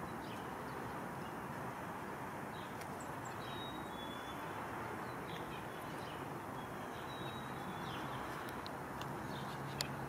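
Faint high whistled bird notes, a higher note then a slightly lower one, heard twice (about three and a half seconds in and again about seven seconds in), with a few faint chips, over a steady low outdoor background noise.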